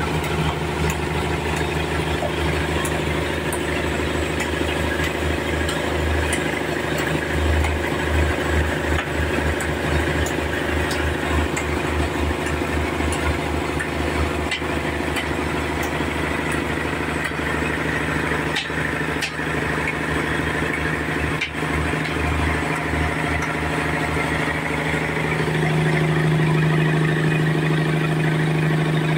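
Sawmill machinery running with a steady hum and a low throb, getting louder about 26 seconds in.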